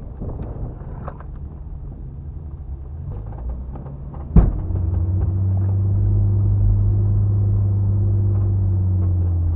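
Off-road vehicle driving on desert sand: a low rumble with small knocks, then a single loud thump about four seconds in. After the thump the engine drone grows louder and holds steady.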